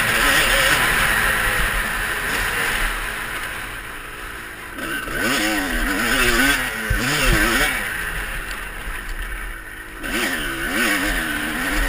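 Motocross bikes riding around a dirt track, their engines revving up and falling back again and again through throttle and gear changes. The engines fade a little about four seconds in and again near nine seconds, then pick up.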